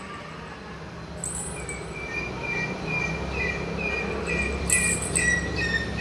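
Eagle calling in a run of short, high repeated notes, about two or three a second, starting about a second and a half in and growing louder toward the end.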